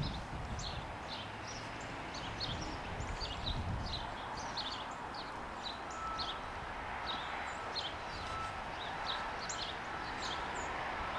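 Small birds chirping, short high calls repeating two or three times a second, over the low steady rumble of a plow truck's engine.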